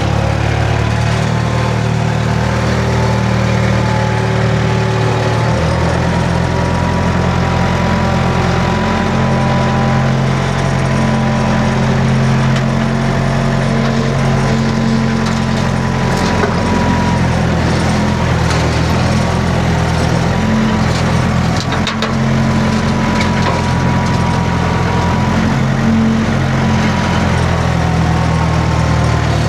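Skid steer engine running steadily while working logs, with a thin whine over the engine note and a few brief knocks about halfway through and again a little later.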